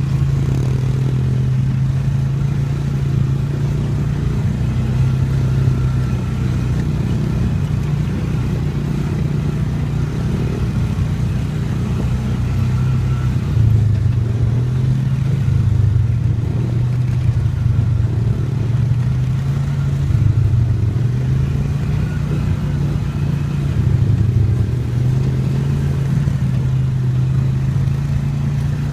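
Yamaha dirt bike engine running under way, its pitch dipping and climbing again every few seconds as the throttle is rolled off and opened.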